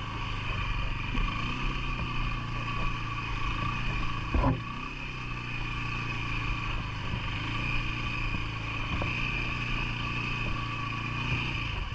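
CFMoto ATV engine running steadily, with a single sharp knock about four and a half seconds in.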